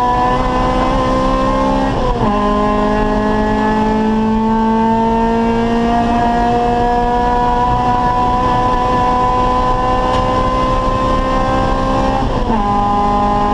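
Acura Integra race car's four-cylinder VTEC engine pulling hard under full throttle, its pitch climbing slowly. It shifts up about two seconds in and again near the end, and each shift brings a quick drop in pitch before it climbs again.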